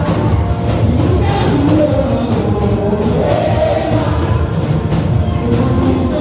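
Live gospel praise music: singing voices over a steady band with drums and bass.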